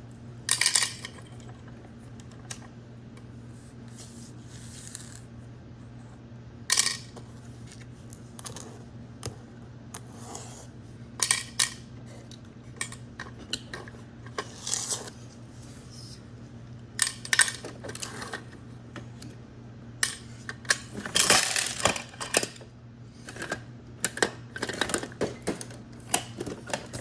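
Hard toy garbage truck parts clacking and clattering irregularly as they are handled, with clusters of quick knocks in the later part, over a steady low hum.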